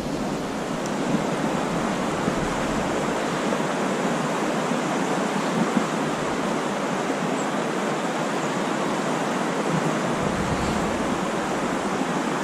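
River water rushing over rapids, a steady even noise.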